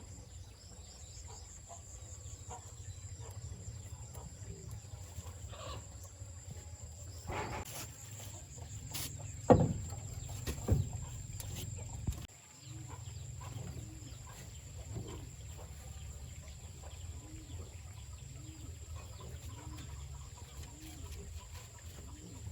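Chickens clucking, with short calls repeating about once a second in the second half, over a steady low hum. A few sharp knocks, the loudest sounds, come about ten seconds in.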